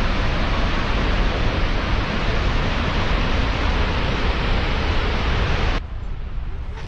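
Steady rushing roar of Snoqualmie Falls, a large waterfall, an even loud noise with no distinct events. It cuts off abruptly about a second before the end.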